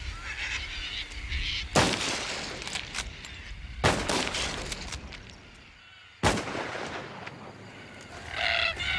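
Three high-powered rifle shots, about two seconds apart, each a sharp crack that rings out, fired to scare cockatoos off the crops. Near the end a flock of cockatoos starts screeching.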